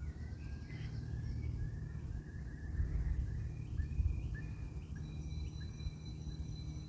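Small birds singing, a string of short chirps over a steady low rumble, with a thin high steady note joining about five seconds in.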